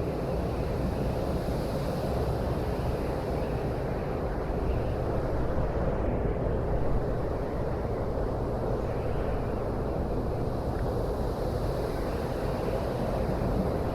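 Steady vehicle rumble with wind noise, running evenly without change.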